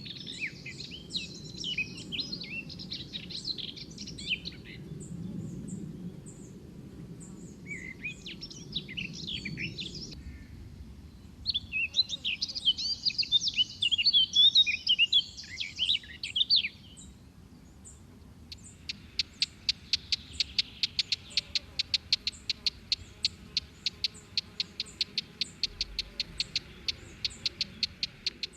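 Birds singing in bouts of quick, chirping twitters. From about two-thirds of the way in comes a long, even series of sharp repeated notes, several a second.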